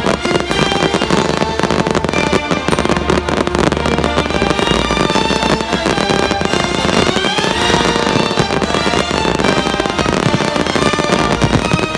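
A fireworks display of fountains of sparks and crackling bursts, going off in a dense, continuous stream of pops and crackles. Loud show music plays along with it.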